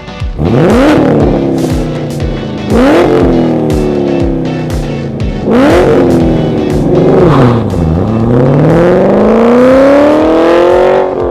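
2016 Camaro SS V8 running through a prototype XForce exhaust with equal-length headers and Varix mufflers, accelerating hard: the engine note sweeps up sharply and sags three times, dips about eight seconds in, then climbs in one long rising run near the end. Background music with a steady beat plays underneath.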